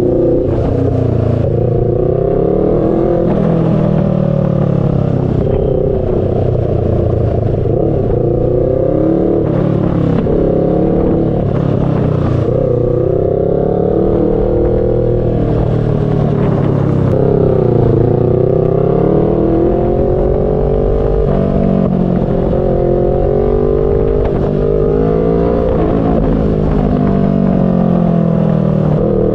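Kawasaki Z650 parallel-twin motorcycle engine under way. Its note repeatedly climbs as the bike accelerates and falls back at gear changes and roll-offs, over a low wind rumble.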